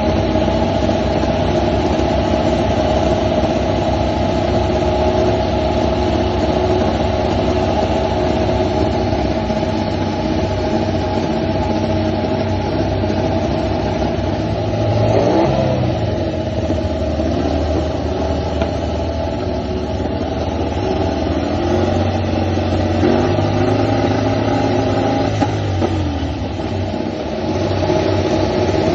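Ducati MotoGP motorcycle's V4 engine running hard at high revs. Its pitch drops and climbs again about halfway through, and shifts again a few seconds before the end.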